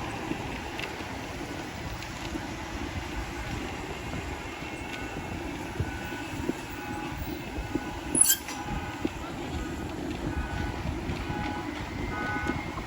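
Steady road and wind noise of a motorbike ride through traffic. From about five seconds in there is a repeated short electronic beeping, and a brief sharp squeak comes about eight seconds in.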